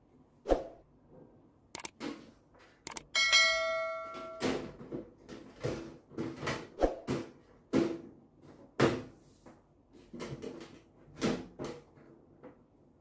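Irregular knocks and clicks of hands and tools working on a microwave oven. About three seconds in, a piece of metal is struck and rings briefly, with several pitches at once.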